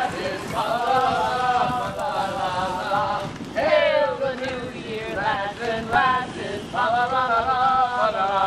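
A group of people singing together without accompaniment, drawing out long held notes between shorter phrases.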